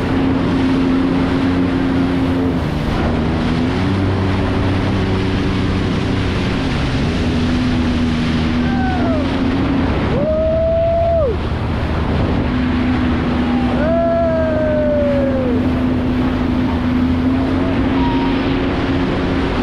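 Jet ski engines running with a steady hum over wind and water noise, with three short revs that rise and fall in pitch near the middle.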